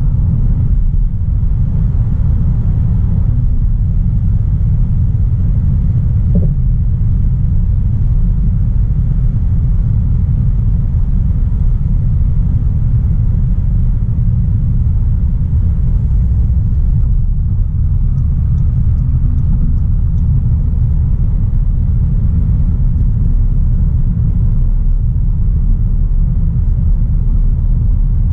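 Steady low rumble of a 2016 Audi A3 Sportback 1.4 TFSI driving along, its turbocharged four-cylinder petrol engine and road noise heard together with no marked revving.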